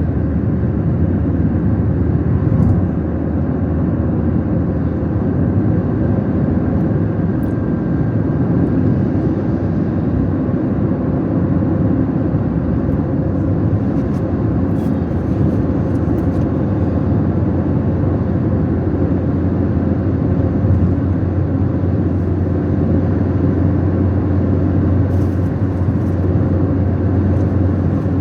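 Car driving along: steady engine and road noise.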